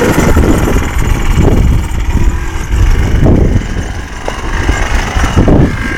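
Yamaha Blaster quad's two-stroke single-cylinder engine running, its loudness rising and falling.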